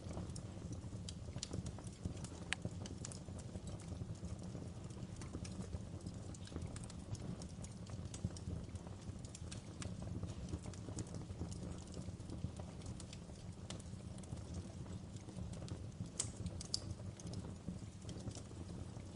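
Wood fire crackling in a fireplace: irregular sharp snaps and pops over a steady low sound of the burning flames.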